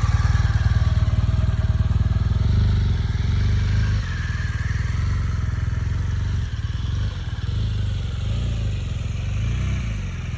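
BMW GS adventure motorcycle engine running steadily at low speed, its note rising and falling with small throttle changes as the bike is ridden slowly around cones.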